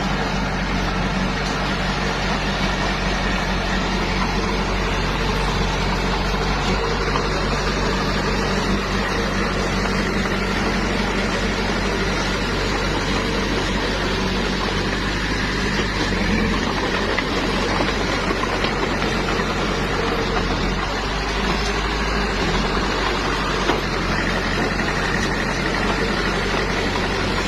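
Small bulldozer's engine running steadily, with a couple of small changes in engine speed partway through.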